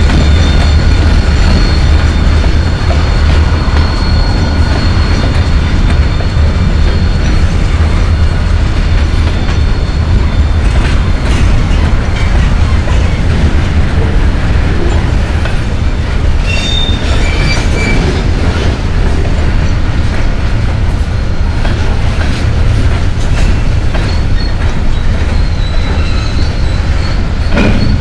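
Freight train cars rolling past, a loud steady rumble with thin high wheel squeals near the start, again briefly about two-thirds of the way through, and near the end.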